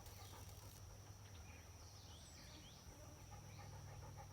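Near silence: faint outdoor ambience by a pond, with a steady faint high tone and a few faint bird chirps in the middle.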